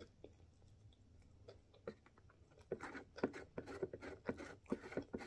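Close-miked chewing of a mouthful of beef cheeseburger: soft wet mouth clicks, sparse at first, then coming thick and louder about halfway through.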